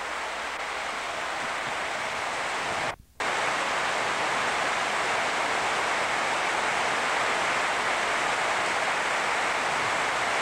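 Heavy rain falling in a steady downpour. The sound breaks off for a split second about three seconds in.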